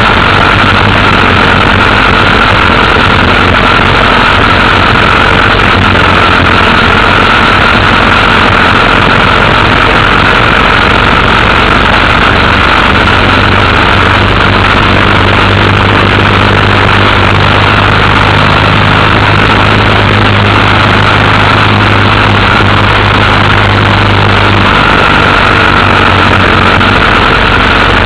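Motorcycle engine running steadily at a nearly constant pitch under loud, continuous rushing noise, as when riding at a steady speed. The engine note shifts slightly about halfway through and again near the end.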